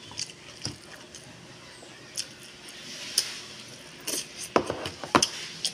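Close-miked eating sounds of a man chewing kimchi and ramen noodles: scattered short wet mouth clicks and smacks, coming more often in the second half.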